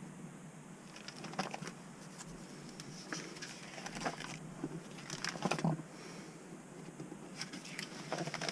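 Paper rustling and pages being turned by hand as logbooks and records are leafed through, in scattered soft rustles and clicks.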